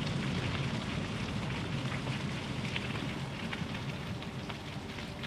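Light rain falling, with scattered sharp drop ticks over a steady hiss, and a low steady rumble beneath.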